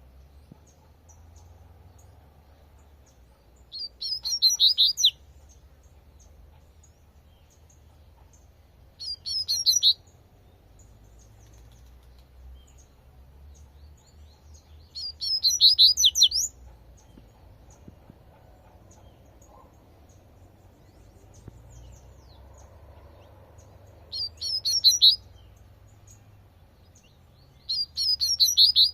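Double-collared seedeater (coleirinho) singing its 'tui tui' song: five short, high-pitched phrases of about a second each, spaced several seconds apart, over a faint low steady rumble.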